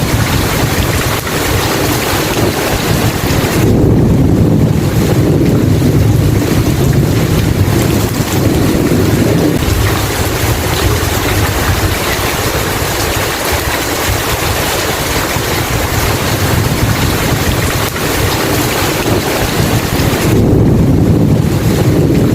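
Steady heavy rain with low rolling thunder, the rumble swelling about four seconds in and again near the end.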